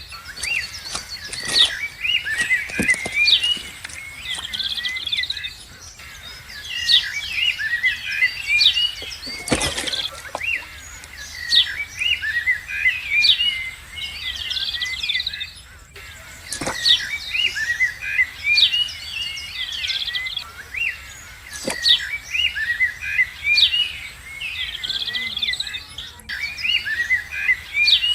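Birds singing, with bouts of quick high chirps and trills repeating throughout. A few dull knocks sound under them, the clearest about ten seconds in.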